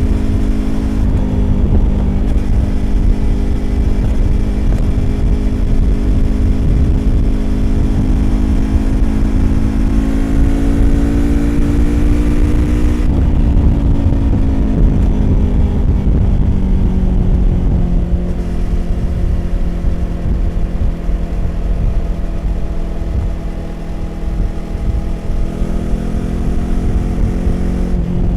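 Yamaha YZF-R25's 250 cc parallel-twin engine through a Prunus aftermarket exhaust, running under load at road speed. The revs climb gradually, then drop away over several seconds as the throttle closes, hold at a lower steady note, and build again near the end.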